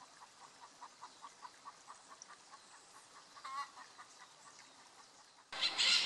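A bird gives a faint, rapid series of short notes, about five a second, with one louder wavering call about halfway through. Near the end, parakeets suddenly break into loud, harsh screeching.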